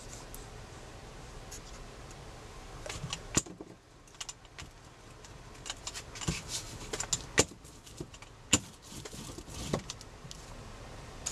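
Small sharp clicks, taps and light clinks of craft supplies being handled on a work table: a few about three seconds in, then a busier run of them in the second half.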